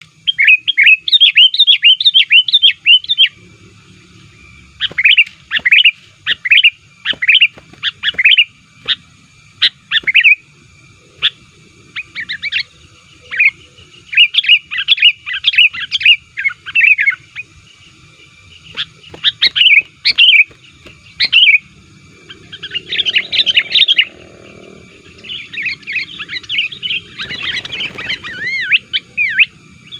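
Sooty-headed bulbul (kutilang) singing in repeated loud bouts of quick, bubbly chirping phrases with short pauses between them. The bouts grow denser toward the end, with the calls running together.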